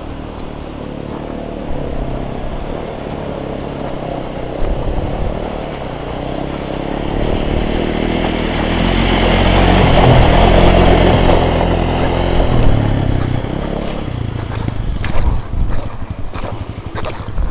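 Dual-sport motorcycle engine running as the bike rides through a river crossing. It grows to its loudest about ten seconds in, then fades.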